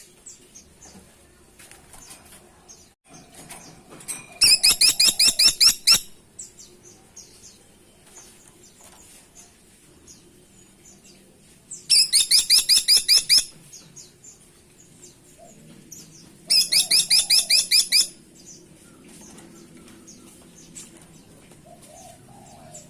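Caladi tikotok woodpecker calling: three bursts of rapid, evenly repeated high-pitched notes, each lasting about a second and a half, with faint chirps in the gaps between them.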